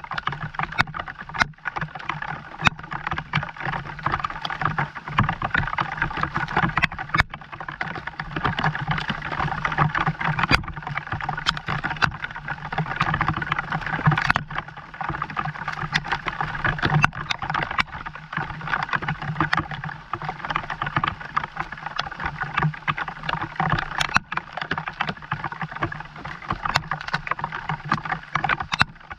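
Steady rain falling, a dense continuous patter with scattered sharper ticks of single drops.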